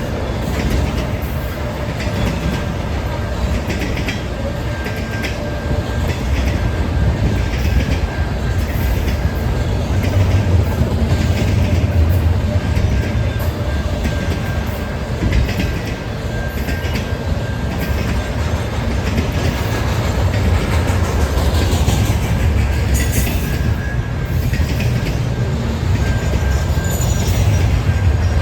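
Freight train cars rolling past with a heavy, steady rumble and regular clicks of wheels over rail joints, plus a faint steady high-pitched wheel squeal.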